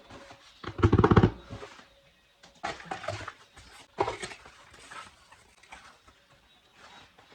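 Cardboard product box being opened by hand: bursts of rustling and scraping packaging, loudest about a second in, with a sharper knock about four seconds in.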